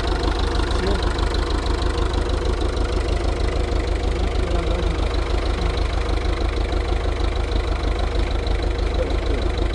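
An engine running steadily at idle, a low, even throb with a rapid regular pulse.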